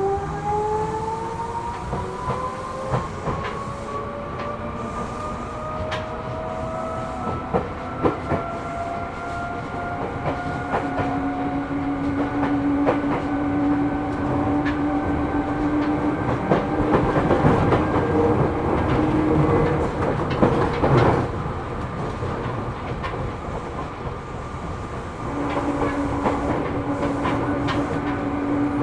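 Running sound inside a Seibu New 2000 series electric train car: the traction motor and gear whine rises in pitch as the train accelerates for the first ten seconds or so, then levels off into a steady hum while the wheels click over the rail joints.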